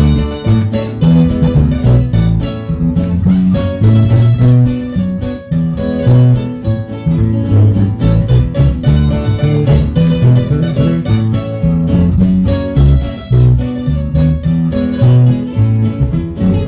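Live guitar music with a bass line: plucked strings playing the instrumental opening of a Christian song, with no singing yet.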